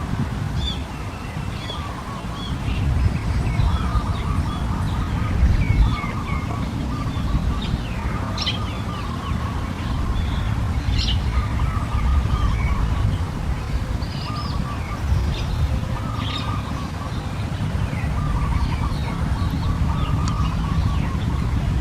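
Bird chirping and calling repeatedly in short phrases, with some quick rising notes, over a steady low rumble.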